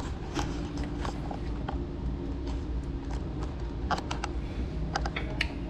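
Scattered light clicks and crackles of hands working on car wiring, with a cluster of quick clicks about four seconds in and again near the end, over a steady low hum.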